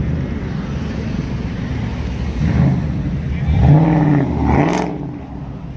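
Car engines running at a car meet, with a few swells where the engine pitch rises and falls as cars are revved or pull away. A single sharp crack comes near the end.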